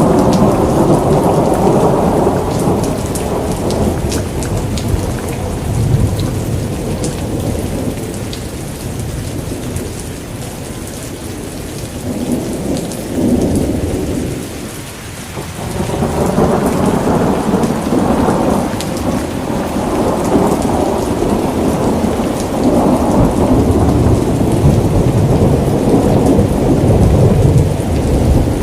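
Steady rain with long rolls of thunder rumbling underneath, easing to a lull about halfway through and then building again.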